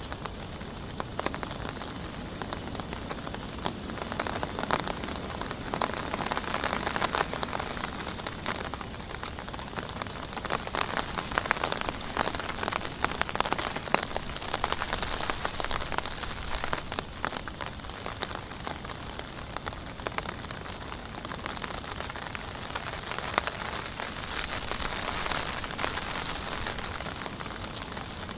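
Heavy rain falling, with many close drops ticking on a surface. A short high trill repeats a little more than once a second.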